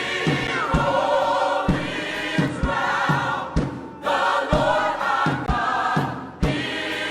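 Choir and congregation singing a gospel worship song with a band, a steady drum beat underneath.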